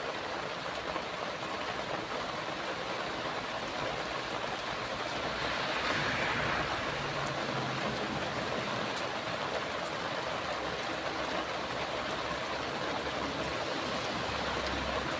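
Steady rain falling, an even hiss that swells slightly about six seconds in.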